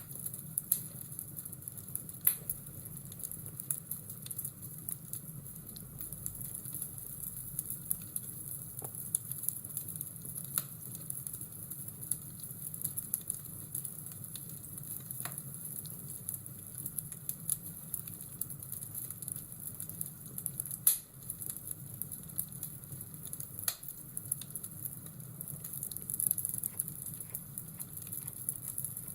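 Fireplace-and-rain ambience: a steady hiss of fire and rain with scattered sharp crackles and pops from the fire, one louder pop near the middle.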